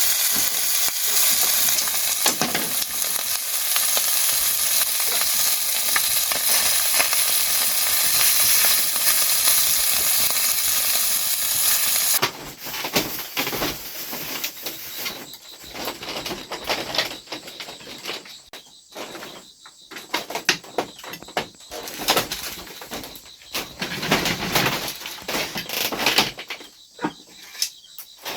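Food frying in hot oil, a steady sizzle that cuts off abruptly about twelve seconds in. After it come quieter, irregular light clicks and knocks.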